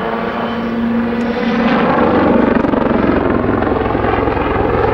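Westland Lynx helicopter in flight, its twin turboshaft engines running under a fast, even beat of the main rotor blades. About two seconds in the rotor thudding grows louder and deeper as the helicopter manoeuvres.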